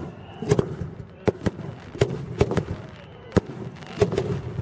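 A fireworks display: a quick, irregular string of sharp bangs, about a dozen in under five seconds.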